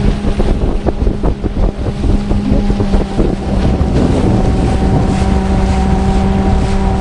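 Motorboat engine running at a steady drone, with wind buffeting the microphone and water rushing past.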